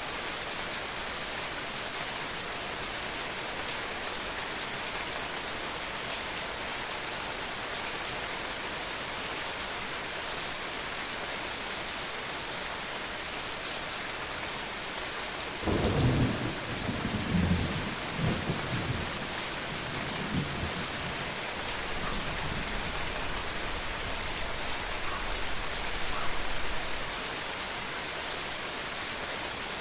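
Steady rain falling. About halfway through, a thunderclap breaks in suddenly and rolls on in low rumbles for about ten seconds before the rain is left alone again.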